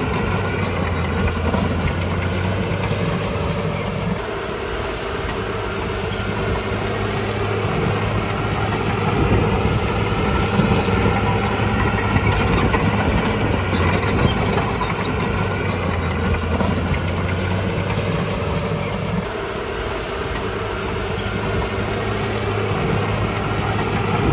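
Heavy diesel engine of a Komatsu D51PX bulldozer running steadily, its note shifting a few times as the load changes, with a few brief clanks.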